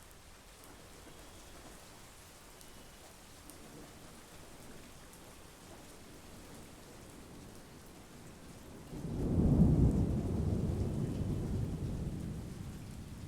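Steady monsoon rain falling. About nine seconds in, a clap of thunder breaks in suddenly with a deep rumble that slowly fades away.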